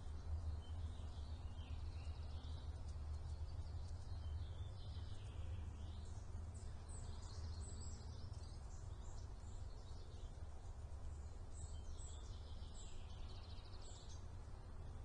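High, thin bird chirps and short falling squeaks, some in quick series, come in clusters over a steady low hum.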